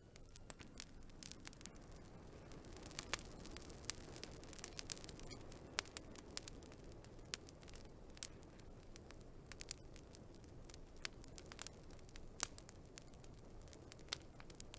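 Wood fire crackling: burning logs give off irregular sharp pops and snaps over a soft, steady hiss.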